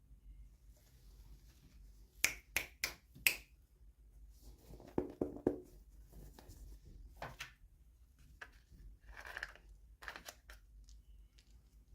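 Small toy packaging being handled and opened by hand: a quick run of four sharp clicks a couple of seconds in, then rustling and scattered clicks and scrapes.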